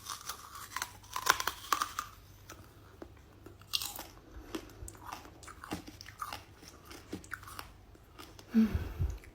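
A person chewing and biting into crunchy food, irregular crisp crunches close to the microphone.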